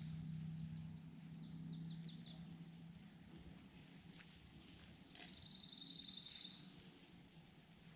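Wild songbirds calling: a quick series of short falling chirps over the first two seconds, then a rapid, even trill about five seconds in. A low steady hum runs underneath and stops about three seconds in.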